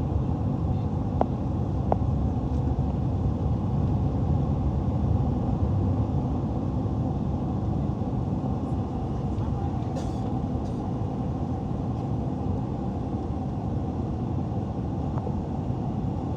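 Airliner cabin noise in flight: a steady low rumble of engines and airflow, with a few brief clicks in the first few seconds and a short hiss about ten seconds in.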